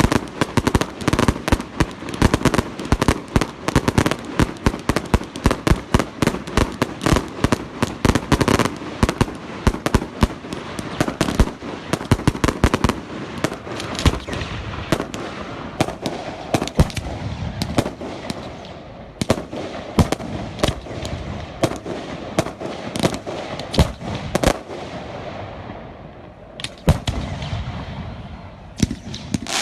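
Fireworks going off: a dense, rapid run of bangs for the first half, thinning to scattered louder bangs over continuous crackling in the second half.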